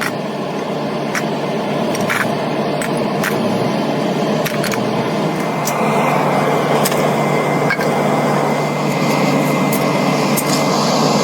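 Steady workshop machinery noise with a constant low hum, broken by scattered sharp clicks and knocks.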